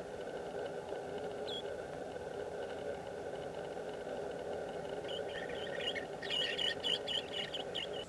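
A small bird chirping: one short high call about a second and a half in, then from about five seconds a quick, growing run of short high chirps, about five a second, over a steady background hum.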